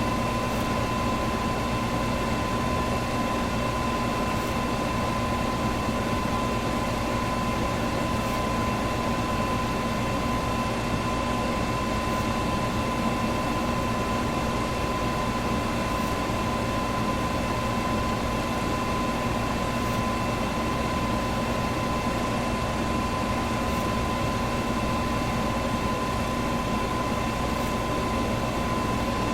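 Electric fan running steadily, a smooth rush of air with a constant motor hum.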